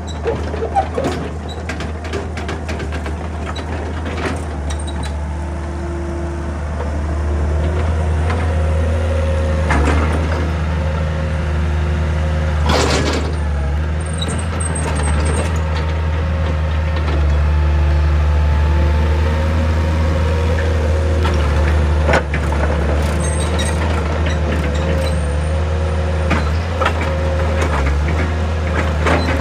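Excavator's diesel engine running steadily under load, with a hydraulic whine that shifts in pitch as the machine works. A few sharp clanks or knocks of the bucket against rock break through the drone.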